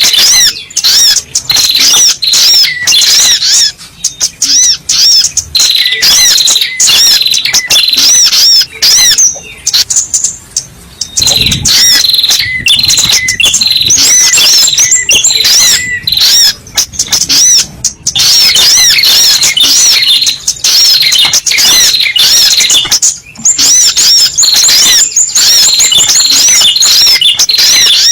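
Spiderhunter (sogok ontong) lure call: a loud, rapid, unbroken stream of sharp high chirps, repeated over and over with only a couple of short pauses.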